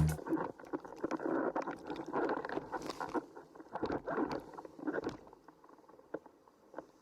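Windsurf board planing over chop: irregular splashing and slapping of water against the hull, fading out after about five seconds.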